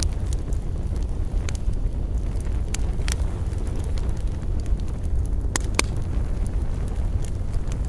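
Wood fire crackling: irregular sharp pops and snaps, a dozen or so scattered through, over a steady low rumble.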